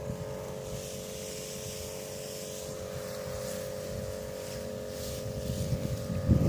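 Small engine of a motorized crop sprayer running steadily at a constant speed, getting louder near the end.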